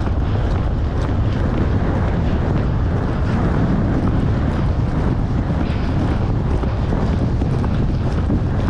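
Strong, steady wind rumble buffeting a GoPro microphone while riding a horse at speed.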